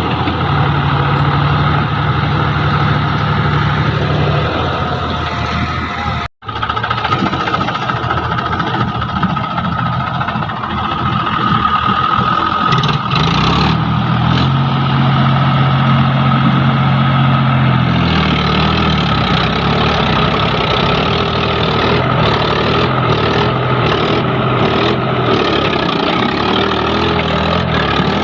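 Heavy diesel engine running, its pitch stepping up and down as it revs and settles. The sound drops out for an instant about six seconds in.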